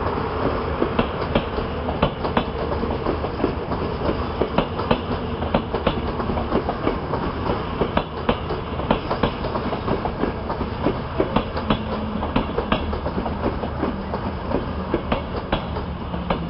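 Passenger coaches rolling past on the track: a steady rumble of wheels on rail, with sharp clicks in irregular clusters as the wheelsets cross rail joints.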